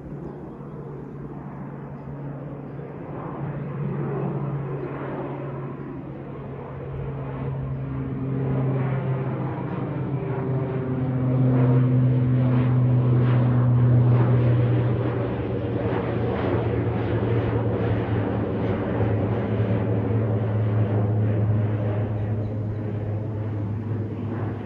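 Departing airliner taking off and climbing past, a loud steady drone with a strong low tone. It swells to its loudest about halfway through, and its pitch sinks slightly as the plane goes by.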